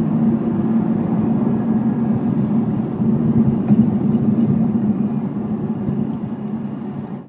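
Audi R8 V10 Plus's 5.2-litre V10 engine running at a steady cruise, heard inside the cabin along with road noise. It eases off slightly in the last couple of seconds, then cuts off suddenly.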